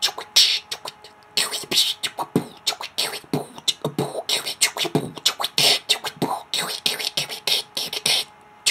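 Beatboxing: a fast run of whispered electro-scratch sounds, the word 'chewy' whispered in different ways, with inward-sucked 'kiwi' sounds worked in to take breath without breaking the pattern. One short sound comes at the start, then a pause of about a second before the dense run of sharp hissing strokes begins.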